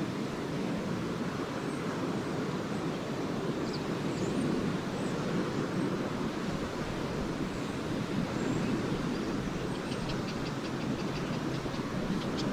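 Lake Erie waves washing steadily onto a beach. A few scattered high swallow chirps come about four seconds in, and near the end a fast run of short high bird chirps sets in, about five a second.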